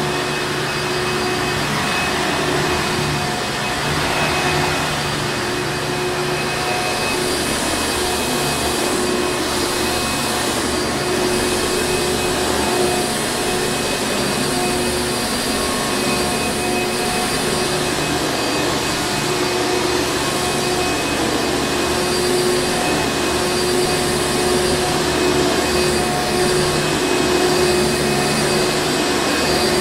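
Hoover Encore Supreme vacuum cleaner running continuously: a steady motor drone with a constant whine over the rush of air.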